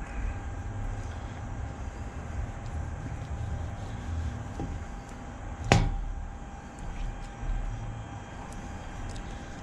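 Knife slicing smoked pork tenderloin on a plastic cutting board, mostly quiet cutting with one sharp knock about halfway through. Underneath is a steady low rumble with a faint hum.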